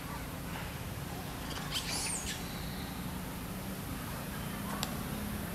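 Steady forest hiss with a single short, high bird chirp sliding down in pitch about two seconds in, and a brief sharp click near the end.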